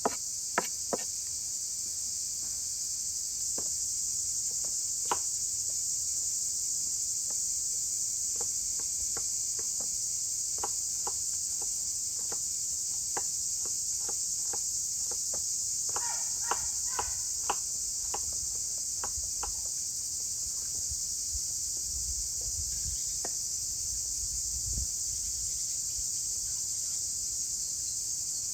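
Steady, high-pitched chorus of insects, such as crickets, with light clicks and taps here and there and a quick run of them about halfway through.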